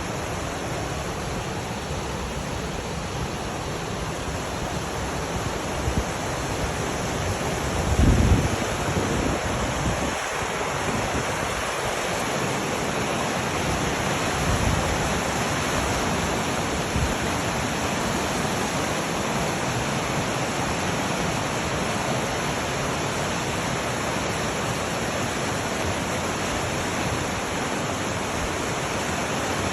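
Steady rushing noise of flowing water, with a brief low rumble about eight seconds in.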